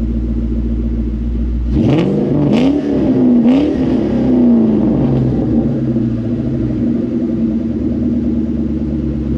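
2004 Mustang Mach 1's 4.6-litre V8 idling through a Borla stainless cat-back exhaust with the catalytic converters deleted and a crossover pipe. About two seconds in it is revved in three quick blips, then drops back to a steady, loud idle.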